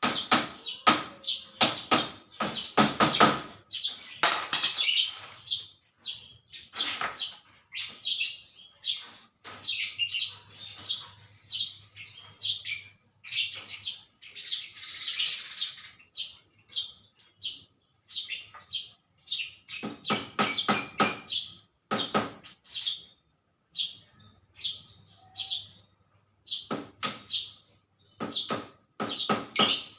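Small birds chirping in quick, sharp, high calls, several a second, coming in bouts with short gaps.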